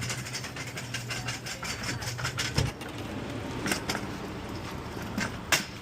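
Vehicle engine idling with a dense clicking rattle, cutting off with a thump about halfway through. After that, two sharp clacks.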